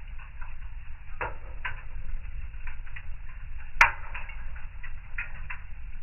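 Wood fire in a fireplace crackling with irregular small snaps, and one sharp, louder pop a little past the middle, over a steady low rumble.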